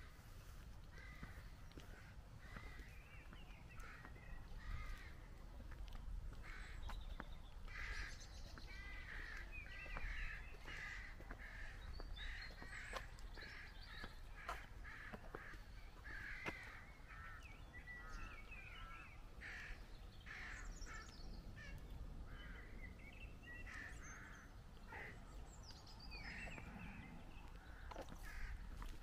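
Birds calling throughout: a busy run of short, harsh calls like cawing crows, over a low steady rumble.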